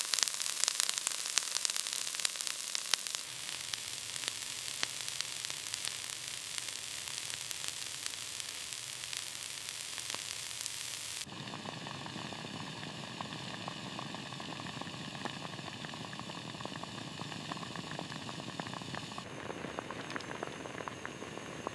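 Food frying in a pan: a steady sizzle with many fine crackles. About eleven seconds in it cuts abruptly to a softer, lower hiss and crackle.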